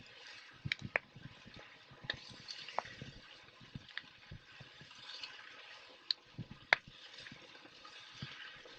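Wood campfire crackling: a steady hiss broken by irregular sharp pops, the loudest about two-thirds of the way through.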